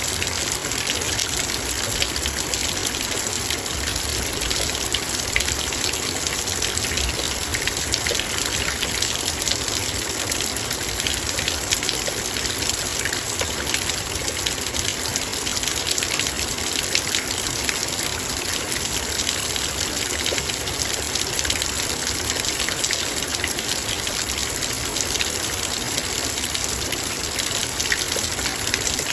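Heavy rain falling steadily, dense raindrops pattering on a metal bowl.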